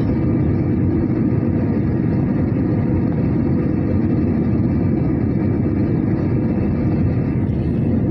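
Aircraft in flight: steady engine and airflow noise, strongest in the low range and unchanging throughout.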